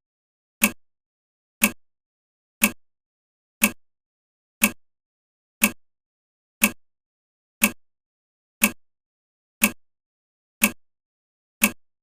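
A sharp tick sound effect sounding once a second, evenly spaced with silence between, counting off the seconds of a timed wait.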